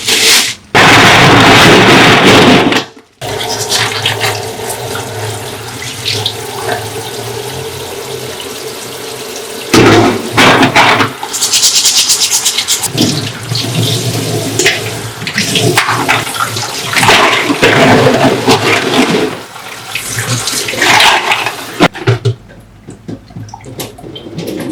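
Kitchen tap water running in surges into a sink while red scallops are rinsed and cleaned, with short knocks among the water noise. The water is loudest about a second in.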